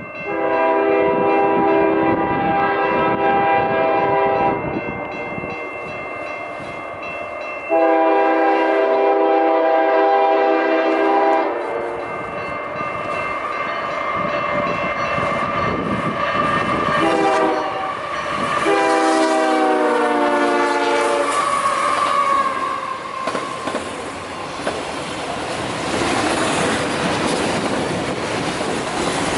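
Freight locomotive horn sounding the grade-crossing pattern: two long blasts, a short one and a long one, the last dropping in pitch as the locomotive passes. Then the train's cars rumble and clatter by, getting hissier near the end.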